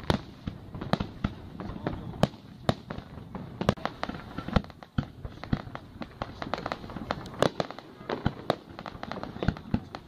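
Fireworks display: irregular sharp bangs from bursting shells, a few a second, over a continuous noisy rumble.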